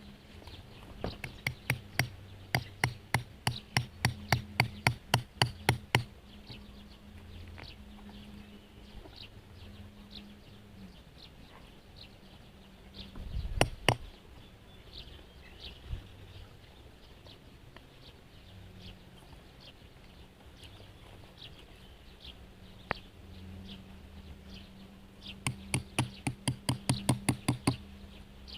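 Low, pulsing dove cooing that comes and goes, broken by two runs of sharp taps about three a second and a single loud knock about halfway through.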